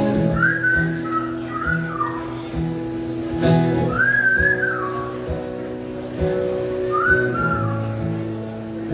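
Whistled melody in four short phrases that rise and fall, over strummed acoustic guitar chords: an instrumental break between verses of the song.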